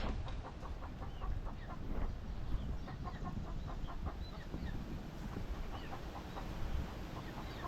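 A flock of Kenyan indigenous (kienyeji) chickens clucking, with many short calls and a few higher chirps throughout, over a low rumble.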